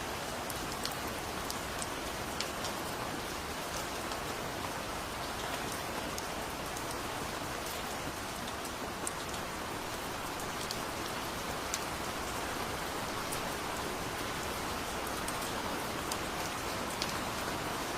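Steady heavy rain: a dense, even hiss with scattered sharp ticks of close drops landing.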